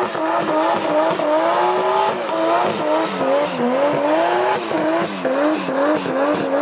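Turbocharged 1JZ inline-six in a Nissan 240SX S13 held at high revs during a second-gear burnout, the engine pitch rising and falling over and over, with the rear tyres squealing as they spin.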